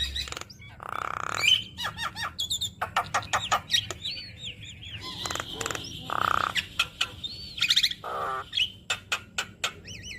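Javan myna (jalak kebo) singing a busy, varied song crowded with mimicked phrases: looping up-and-down whistles, fast runs of clicks, and two harsh buzzy notes, about a second in and about six seconds in.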